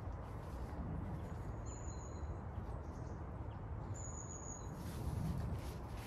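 A small bird gives two thin, high-pitched calls, each about half a second long, over a steady low rumble of woodland background noise. Faint rustling comes near the end.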